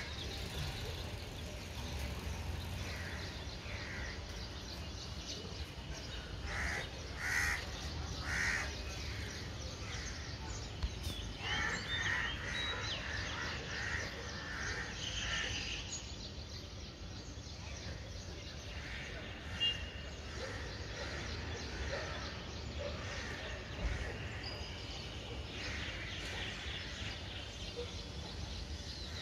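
Birds calling: short calls repeated a few at a time, with faint higher chirps, over a steady low rumble.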